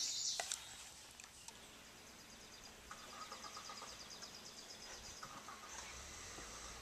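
Quiet woodland ambience with a songbird's rapid, high-pitched trill a couple of seconds in.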